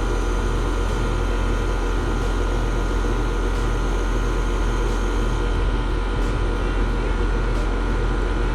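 Outdoor condensing unit of an Amana split-system air conditioner running steadily: the newly replaced compressor and condenser fan give a steady hum with several even tones, with refrigerant being charged in as the system levels out.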